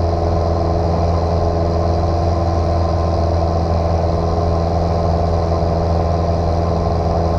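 Light single-engine aircraft's piston engine running steadily at constant power, a continuous even drone with no change in pitch.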